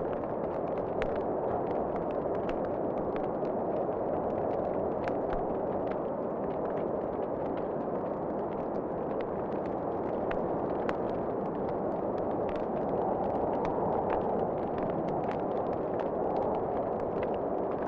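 Wood fire crackling in a fireplace, with frequent irregular sharp pops and snaps over a steady rushing wind.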